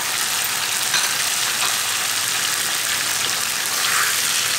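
Oil sizzling steadily in a frying pan as cubed potatoes, eggplant and tomato fry, with a spatula stirring through the vegetables.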